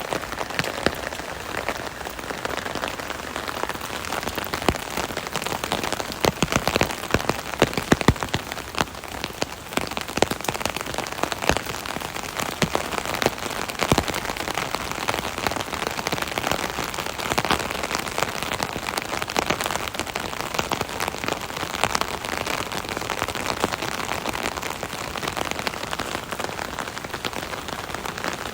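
Steady rain drumming on an umbrella canopy overhead, a dense patter of individual drops over a continuous hiss, with a spell of heavier, louder drops early on.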